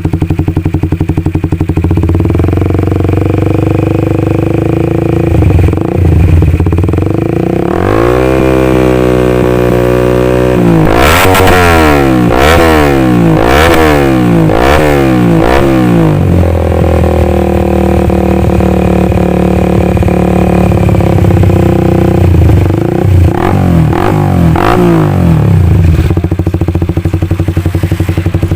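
Old Honda CB150 motorcycle's single-cylinder four-stroke engine through an MRS aftermarket racing exhaust with a deep bass note, idling and being revved by hand. The throttle is opened and closed in a quick run of repeated revs about once a second near the middle, the engine settles to a steady idle, then gets a few more blips near the end.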